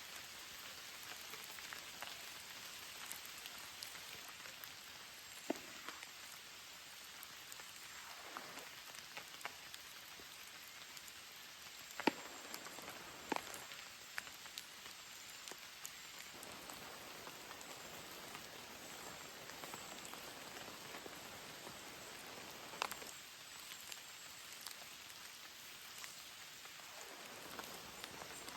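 Steady rain falling, with a few sharper ticks scattered through it, the loudest about twelve seconds in.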